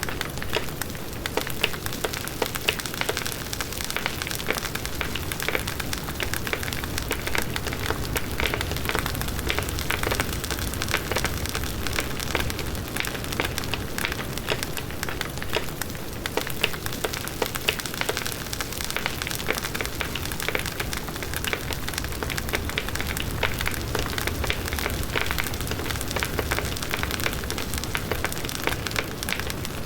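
Large wood bonfire burning steadily: dense crackling and popping of the burning wood over a low rush of the flames.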